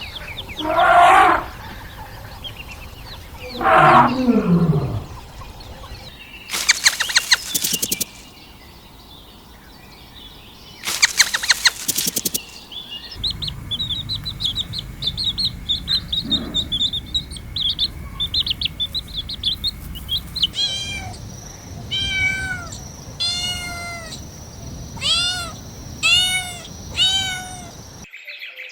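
A string of separate animal calls: pitched meowing-type calls, one sliding down in pitch, two short rattling bursts, a stretch of high twittering like small birds, then about eight short arched calls in a row.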